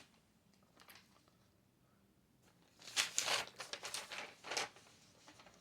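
Paper rustling in a quiet room: a faint rustle about a second in, then a cluster of short crinkling rustles from about three to four and a half seconds in.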